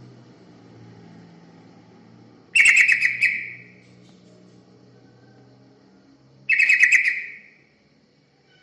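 Yellow-vented bulbul (trucukan) song: two short phrases of rapid notes, each about a second long, about four seconds apart.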